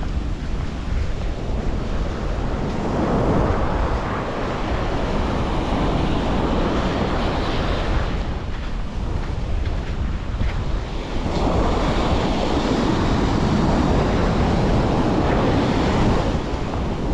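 Sea waves washing onto the shore, swelling up twice, with wind rumbling on the microphone.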